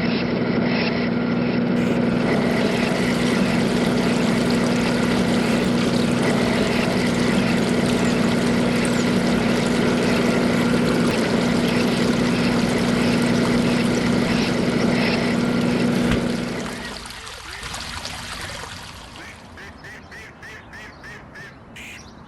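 Small electric motor running at a steady pitch with a constant whine, then winding down and stopping about three-quarters of the way through, followed by faint ticking.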